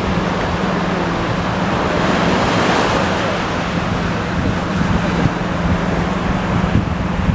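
Ocean waves washing, with wind buffeting the microphone and a steady low hum underneath. The wash swells briefly about two to three seconds in.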